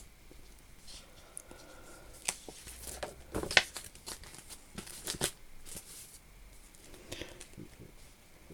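Paper or card being handled: quiet rustling and light clicks, with a couple of sharper rustles about three and a half and five seconds in.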